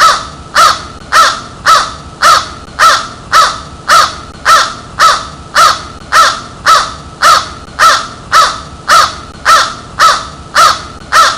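A crow cawing: short, harsh caws repeated evenly about twice a second, some twenty in a row.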